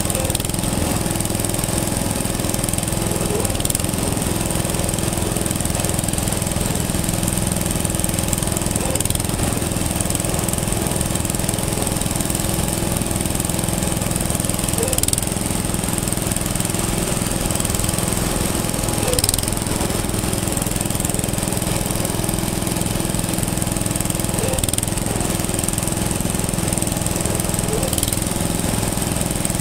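An engine running steadily at an even speed, with a fast, regular mechanical beat.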